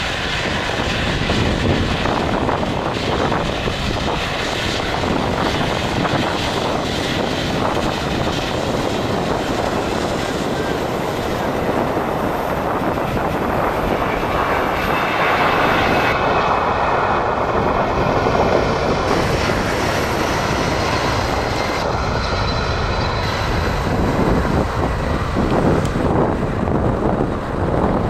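Airliner engines running loud at close range: a steady rush of engine noise that swells somewhat past the middle.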